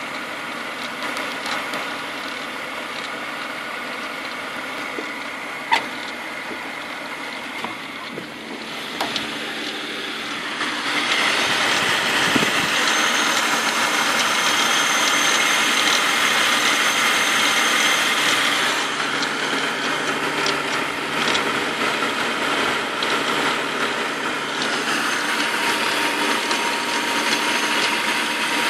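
BMW M52B28 2.8-litre straight-six engine running, with a metallic rattle from the front of the engine like a loose bolt rattling in aluminium, which the owner places around the oil filter housing and not the VANOS units. The sound gets louder about ten seconds in.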